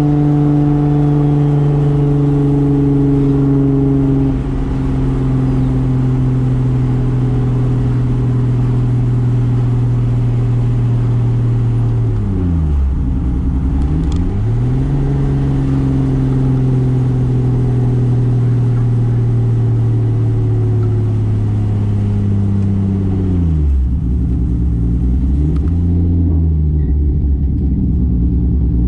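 Single-turbo 2JZ inline-six engine of a 1995 Toyota Soarer, heard from on board, running at steady revs. About twelve seconds in the revs drop sharply and climb back. A second sharp drop comes near the end, and the engine settles at a lower pitch.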